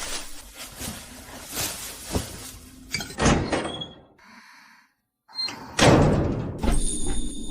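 A series of heavy thuds and bangs with scraping noise between them, broken by a short silence about five seconds in, then a loud hit.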